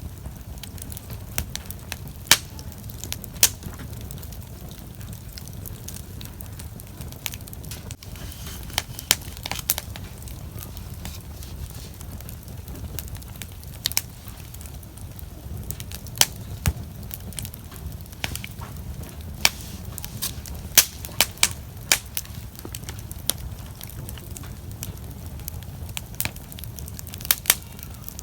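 Wood bonfire crackling, with sharp pops and snaps at irregular intervals over a steady low rumble.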